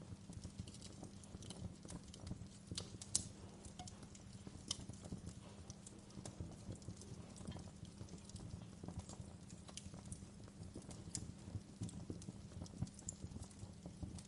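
Fire crackling: irregular sharp pops and snaps over a low, steady rumble, the sharpest pop about three seconds in.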